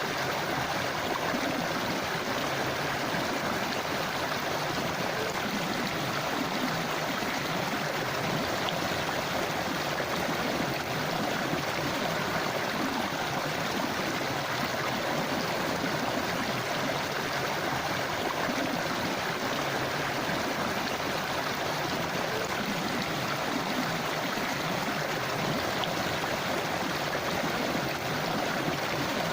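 A river or stream flowing over rocks, a steady rushing and gurgling of water that keeps an even level throughout.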